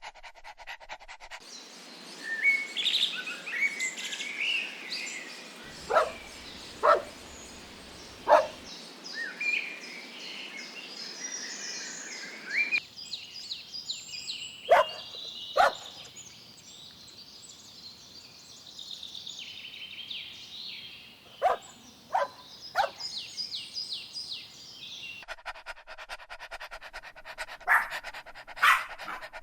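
Dogs giving short single barks, about ten in all and several in quick pairs or triples, with panting between them and birds chirping.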